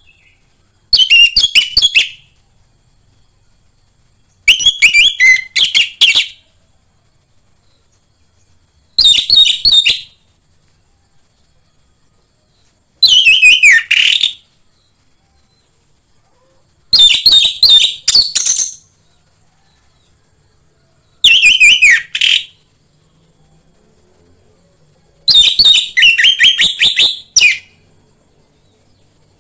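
Orange-headed thrush (anis merah) singing. It gives seven short phrases of quick, high whistled notes, each often sliding down at the end, spaced about four seconds apart. A faint steady high-pitched hiss runs underneath.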